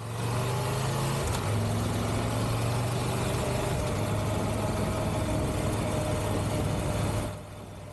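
Triumph Tiger 1200 motorcycle's three-cylinder engine running at a steady cruise, under heavy wind and road noise. The sound drops sharply to a quieter hum near the end.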